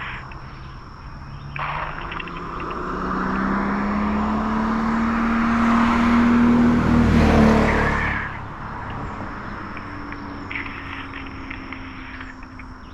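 A motor vehicle passing on the road: its engine and tyre noise build up over several seconds, peak about seven seconds in, then fall away.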